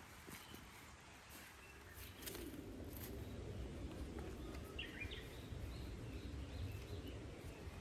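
Outdoor ambience: a low steady rumble comes in about two seconds in, with a few light clicks, and a short bird call about five seconds in.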